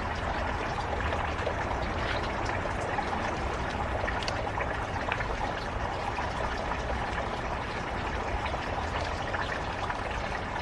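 Steady trickling, running-water-like noise with a few faint clicks and rustles.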